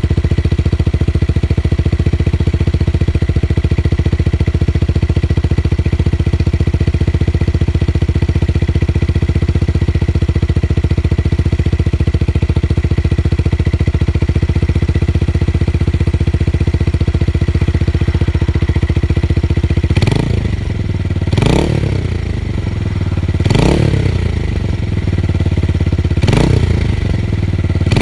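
Tuned motorcycle engine idling steadily with a deep bass exhaust note, then revved in four short throttle blips over the last several seconds.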